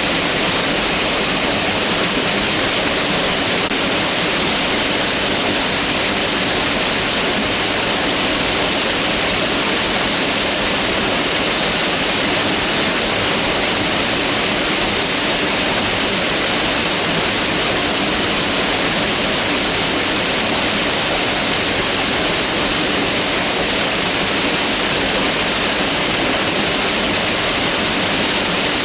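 Mountain river rushing steadily over rocks, a constant, even hiss of moving water.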